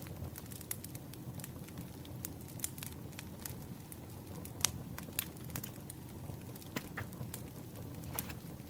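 Campfire crackling: a steady low rumble of flames with scattered sharp pops and snaps, one louder pop near the middle.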